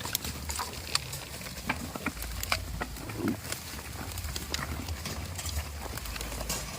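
Goats moving about: scattered sharp clicks and knocks, irregular and unevenly spaced, over a steady low rumble.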